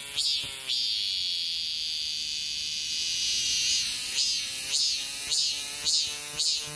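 Cicada singing: rapidly repeated pitched calls at about two to three a second, breaking into a steady high buzz for about three seconds, then the repeated calls start again about four seconds in.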